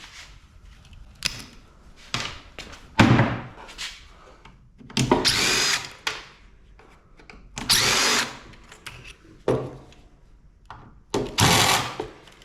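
Power drill run in short bursts of about a second, several times over, with knocks of metal between them, the loudest about three seconds in, during the dismantling of a scrap air-conditioning unit.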